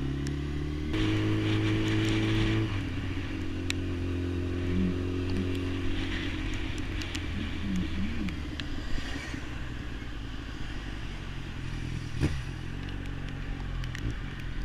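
Motorcycle engine running steadily while being ridden, growing louder and shifting pitch about a second in, then settling back to a steady note a couple of seconds later.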